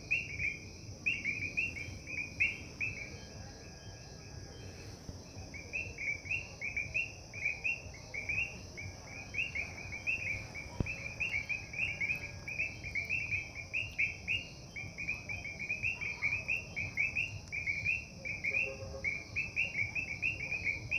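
Evening garden chorus: short high chirps repeated several times a second in long runs, over a steady high-pitched drone. A single sharp click about halfway through.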